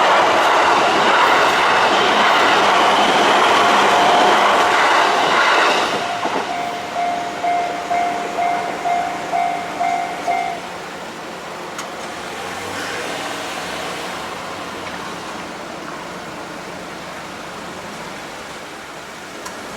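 A JR Uchibo Line train passes over a Japanese level crossing, a loud, steady rush and clatter of wheels, while the crossing's electronic alarm rings. The train noise falls away about six seconds in. That leaves the alarm bell sounding alone in regular strokes, about two a second, until it stops about ten seconds in.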